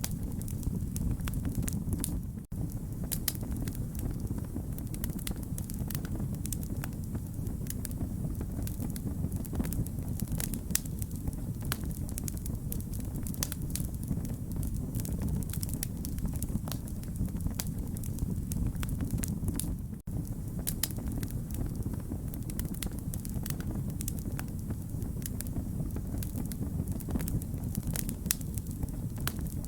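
Wood fire crackling: a steady low rumble of flames with many small, sharp pops. The sound cuts out for an instant twice.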